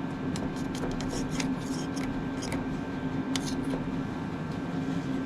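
Scattered light clicks and scraping of hand tools and metal parts being handled on the tractor, over a steady low background hum.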